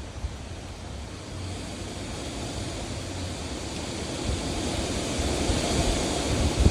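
Heavy rain falling, with a low rumble underneath and a rushing noise that swells over several seconds and peaks near the end.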